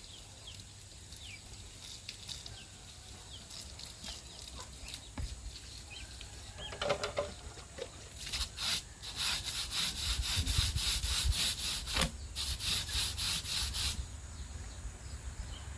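Brush scrubbing a radiator in quick back-and-forth strokes, faint and scattered at first, then loud and rapid for about six seconds with a brief pause in the middle.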